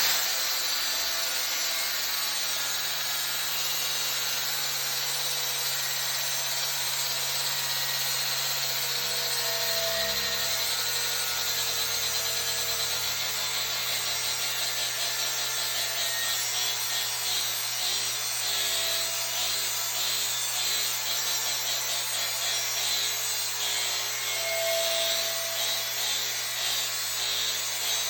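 Angle grinder cutting a weld bevel into metal, held steady against the work as the welding positioner turns it. The grinding runs continuously at an even level, with a steady hum underneath.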